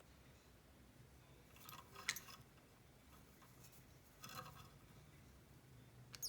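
Near silence broken by a few faint, brief clicks and rustles from a green cheek conure, at about two seconds, a little past four seconds, and once more at the end.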